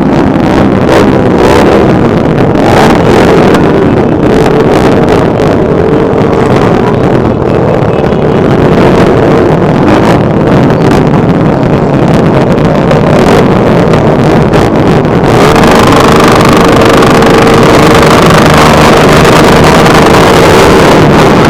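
A crowd of motorcycle engines running together, loud and distorted, with wind buffeting the microphone. About fifteen seconds in, a steadier, higher tone joins the din.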